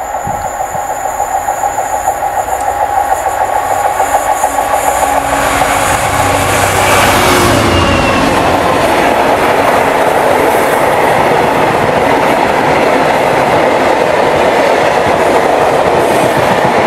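A freight train approaching and passing close by. The locomotive grows louder over the first several seconds and goes past about seven seconds in. A steady run of bulk hopper wagons follows, clattering over the rail joints.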